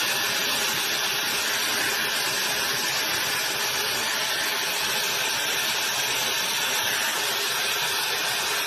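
JITOOW high-speed hair dryer running steadily, a constant rush of blown air with a high motor hiss.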